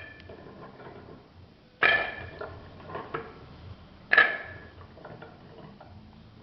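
An ordinary metal cooking pot being handled, clanking twice with a ringing tone about two seconds apart, with a few lighter knocks in between.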